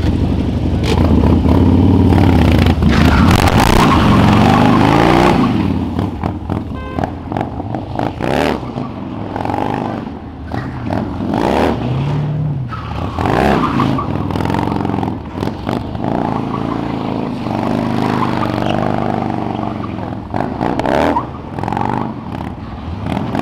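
Car engines revving and driving past, their pitch rising and falling with the throttle. Loudest in the first five seconds, then several quieter passes and revs.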